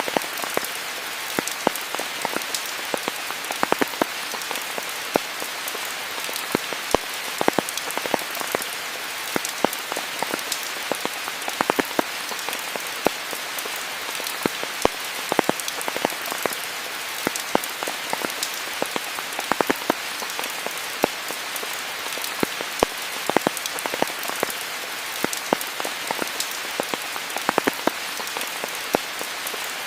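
Steady rain falling, an even hiss with many separate, close drops ticking sharply on leaves and surfaces throughout.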